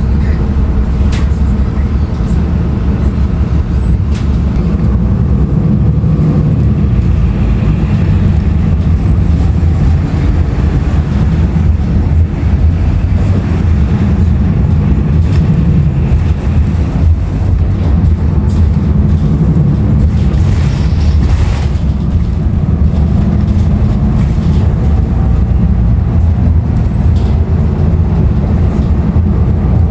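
Steady low rumble inside a 2016 Nova Bus LFS transit bus under way, from its Cummins ISL9 diesel engine and road noise, with a few light rattles now and then.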